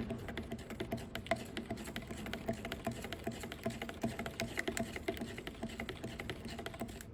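Epoxy primer being mixed and handled in a cup: many quick, irregular light clicks and taps. A steady low wind rumble runs underneath.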